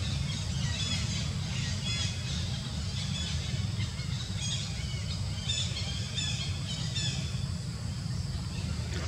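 Birds chirping and calling in many short high notes, thinning out near the end, over a steady low rumble.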